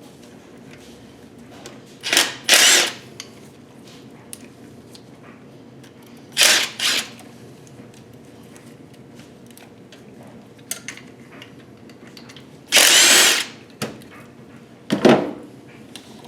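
Handheld power tool run in short bursts, each under a second, four times with pauses between.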